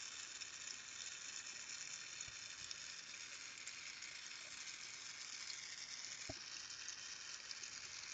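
Carlisle glassworking torch flame hissing steadily, with a single faint tap about six seconds in.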